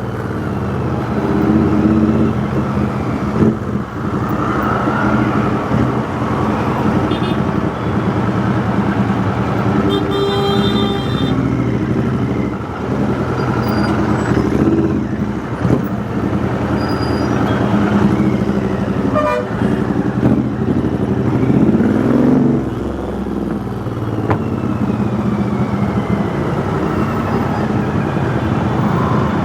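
Royal Enfield Interceptor 650 parallel-twin engine running through a custom 2-into-1 exhaust in traffic, engine speed rising and falling as the bike is ridden. A vehicle horn sounds briefly about ten seconds in.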